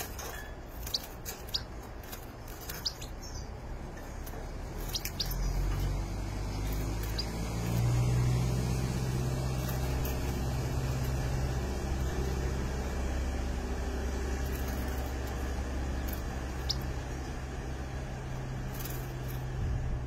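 Scattered short, sharp bird chirps, most of them in the first five seconds, over a low engine drone that comes in about five seconds in and then runs steadily as the loudest sound.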